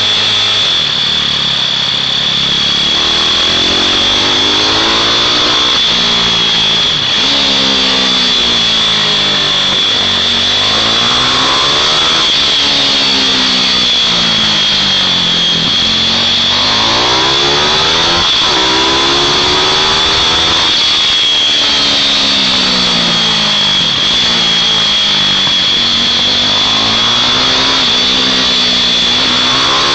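Small mini bike engines racing round a track, their pitch rising as they accelerate and falling as they slow, over and over, with a steady high-pitched whine throughout.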